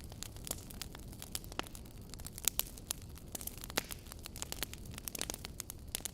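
Fireplace crackling: irregular sharp pops and snaps over a soft low rumble of burning.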